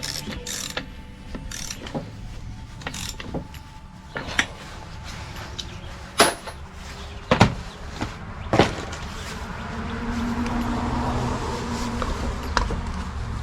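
Irregular clicks, clinks and knocks of hand tools and parts being handled while working on a string trimmer, the loudest about six, seven and a half and eight and a half seconds in. A low background rumble grows louder toward the end.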